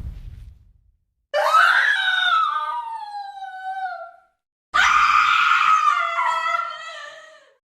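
Two screams from a sound-effect library, each about three seconds long, trailing off and dropping in pitch as they fade. In the first second, the rumbling tail of a boom dies away before them.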